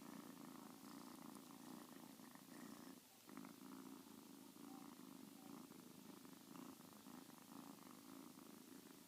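A kitten purring faintly and steadily, with a brief break about three seconds in.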